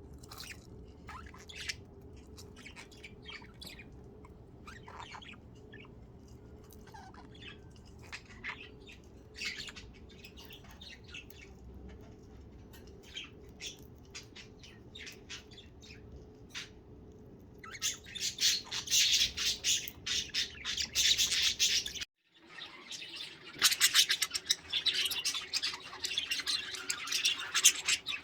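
Pet budgerigars chirping: scattered short chirps at first, then about two-thirds of the way through several birds break into dense, louder chattering, cut by a brief gap before the chattering resumes.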